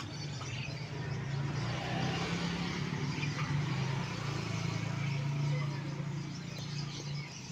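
An engine running steadily with a low hum that stops shortly before the end.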